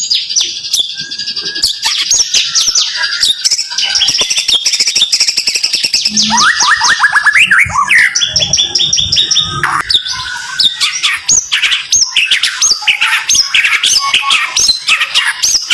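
White-rumped shama (murai batu) singing a rapid-fire 'tembakan' burst: fast, dense runs of sharp, high whistled notes and repeated trills, with hardly a pause.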